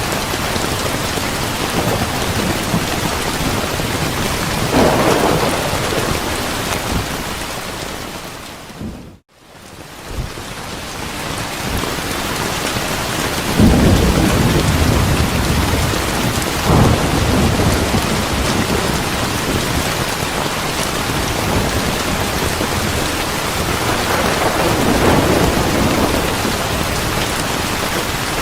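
Steady heavy rain with rolls of distant thunder rumbling through it several times. About nine seconds in, the whole sound fades out to near silence for a moment and then comes back in.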